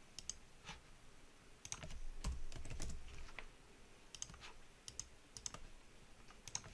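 Faint, scattered clicks of a computer keyboard and mouse, a few keystrokes at a time. A low rumble swells for about a second and a half in the middle.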